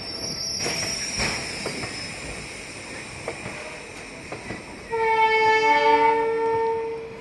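Indian Railways passenger train wheels squealing on the rails with a few clicks over rail joints, the squeal fading in the first two seconds. About five seconds in, a train horn sounds for about two seconds, the loudest sound here.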